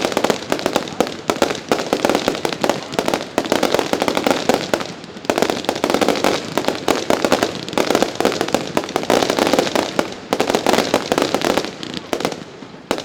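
Professional display fireworks going off in a rapid, dense barrage of bangs and crackles, with a couple of brief lulls.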